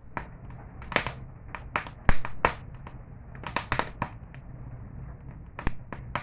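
Campfire crackling: irregular sharp pops and snaps, bunched in quick clusters with the loudest about two seconds in, over a low steady rushing noise.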